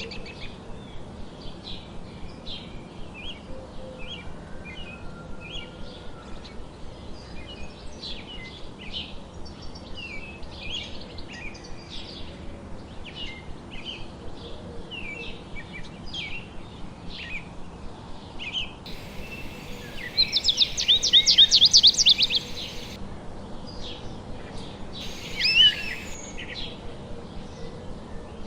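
Several songbirds chirping and calling with many short notes over a steady background hiss. About two-thirds of the way in, a louder, rapid trill lasts about two seconds, followed a few seconds later by a single loud call.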